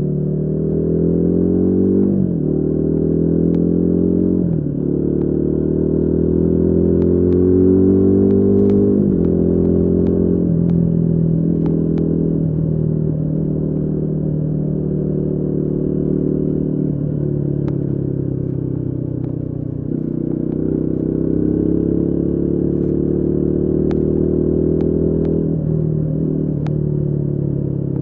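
Royal Enfield Guerrilla 450's single-cylinder engine accelerating on the move. Its pitch climbs and then falls sharply at each gear change, three times in the first nine seconds. It then holds steadier, with further drops and climbs near two-thirds through and near the end.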